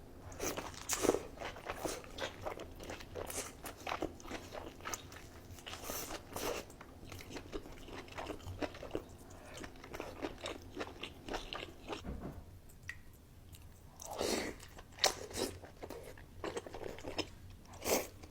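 Close-miked eating of crunchy food: rapid crisp crunches and chewing, a short lull about two-thirds through, then a few louder bites.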